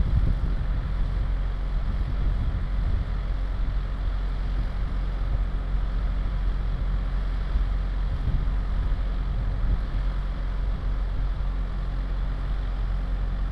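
A vehicle engine idling steadily, with an even low rumble.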